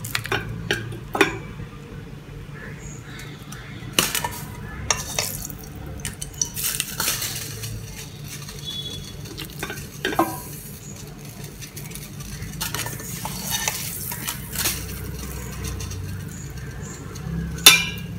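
Hand squishing and rubbing a thick, oily masala marinade into chicken legs in a stainless steel pot, with scattered clicks and knocks against the pot. A loud knock on the pot near the end.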